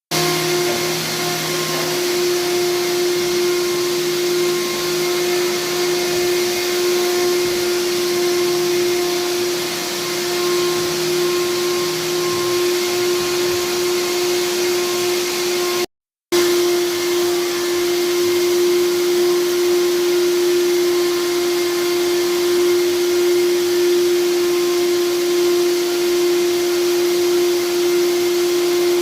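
A vacuum machine running steadily, with a constant hum and a strong hiss of rushing air; the sound cuts out for a moment about sixteen seconds in and then resumes unchanged.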